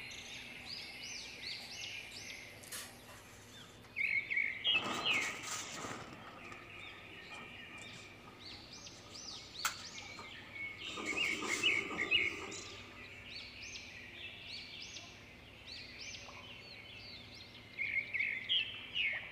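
Birds chirping in repeated clusters of quick, high notes, with two short swells of noise about five seconds in and again around eleven seconds.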